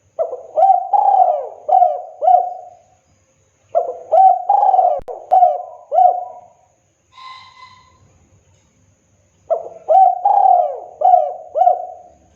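Spotted dove (tekukur) cooing its song: three loud phrases of about five rolling coos each, with a short, fainter single call between the second and third phrase.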